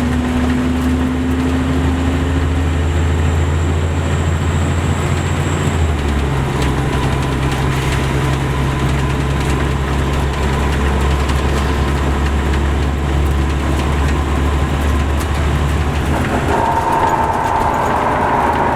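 Caterpillar C13 diesel engine of an MCI D4500CL coach running steadily. Its note climbs slowly at first and steps to a new pitch about six seconds in, and a higher whine joins near the end.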